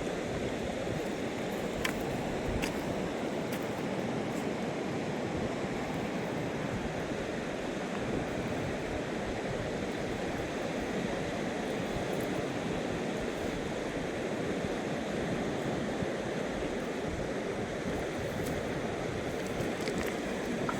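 Fast-flowing mountain river rushing steadily, with two faint clicks about two seconds in.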